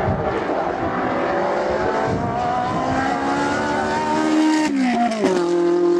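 Ferrari 458's naturally aspirated 4.5-litre V8 running hard under load, its note climbing slightly, then dropping sharply about five seconds in with a few crackles from the exhaust before settling to a steady lower note.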